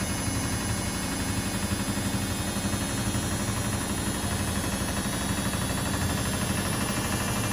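Laundry appliances running: a steady mechanical hum and low rumble from washing machines and tumble dryers at work.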